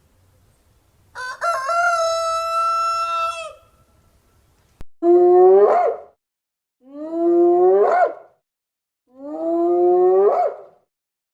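A rooster crowing once, a long even-pitched crow of about two seconds. After a cut, a different animal calls three times, each call about a second long and rising sharply in pitch at its end.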